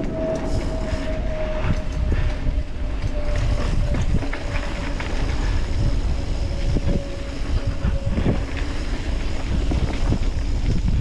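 Mountain bike riding down a dirt trail, heard from a camera on the rider: wind rumbles on the microphone, the tyres roll, and the bike rattles and knocks over bumps. A thin steady whine slowly falls in pitch and fades out about eight seconds in.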